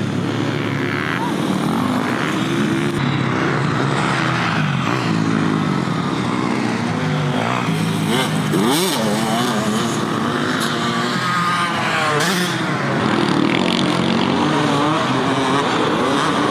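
Several motocross bike engines revving up and down as they race, overlapping throughout with pitch rising and falling.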